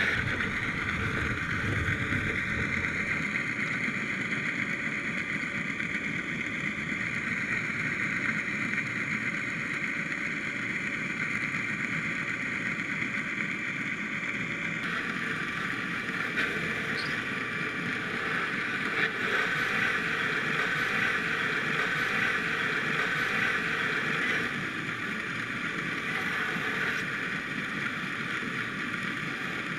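Steady mechanical drone with a few held tones over water noise, typical of a boat's motor heard through the water. Its character changes abruptly about halfway through.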